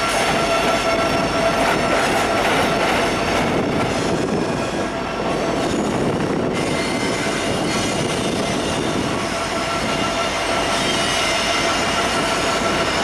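Train cars rolling past on the rails, a continuous loud rumble and clatter with a steady high-pitched wheel squeal running through it.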